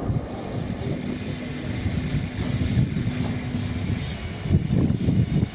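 Strong wind buffeting the microphone in gusts, a low rumble with a steady hiss over it.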